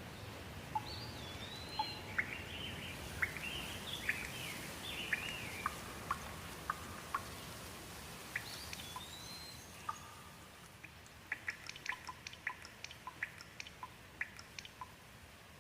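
Rain falling with a steady hiss and sharp single drips, while a bird calls with rising and falling notes. The hiss eases about ten seconds in, leaving the drips as clear separate ticks.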